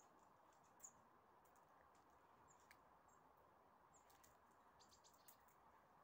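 Faint, short high-pitched chirps of a small songbird, a handful scattered through, with a few soft clicks over a quiet hiss.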